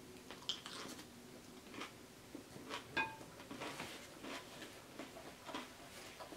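Close-up mouth sounds of chewing a mouthful of bowtie Caesar pasta salad: faint wet smacks and clicks, several a second. About three seconds in, the loudest sound is a single short clink with a brief ring, as the wooden chopsticks are set down in the glass bowl.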